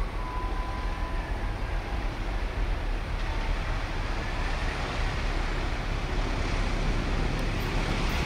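Diesel locomotive hauling a passenger train approaching along the track. Its engine rumble and wheel noise grow steadily louder as it nears.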